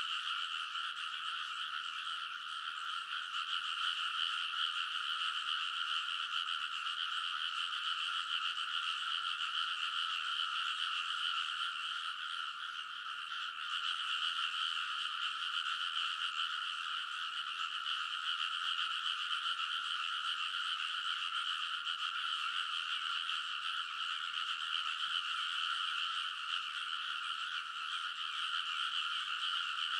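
Dense chorus of many rice-paddy frogs calling over one another without a break, a steady mass of croaking.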